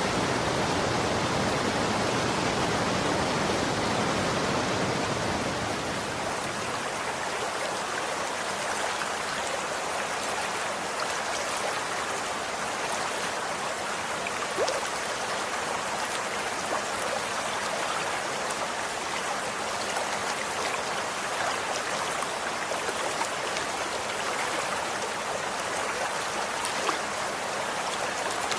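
Running water flowing steadily, a stream-like rush with faint small splashes and drips. The deeper part of the rush fades about five seconds in, leaving a lighter, brighter flow.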